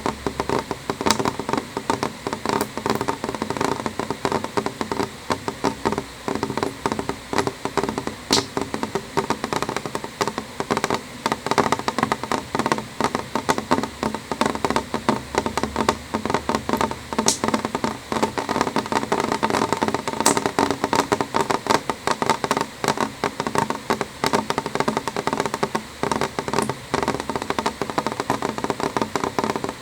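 Rain on window glass: a dense, steady stream of small drop taps, with a few sharper, brighter ticks standing out now and then.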